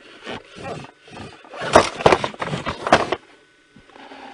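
Cardboard toy box being handled and turned, rubbing and scraping in several rough bursts. The loudest run from about one and a half to three seconds in.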